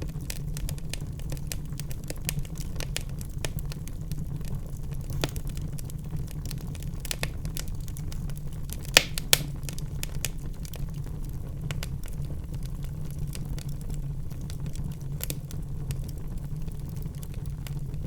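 Wood fire in a fireplace crackling, with a steady low rumble underneath and two sharper pops about halfway through.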